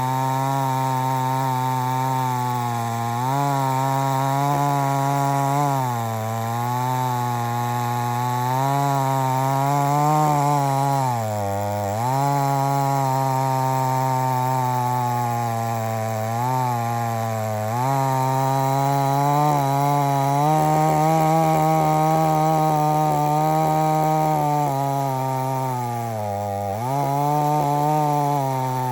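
XtremepowerUS 6200 two-stroke gas chainsaw running near full throttle while cutting wood, its engine pitch sagging briefly about five times as the chain takes the load, then climbing back.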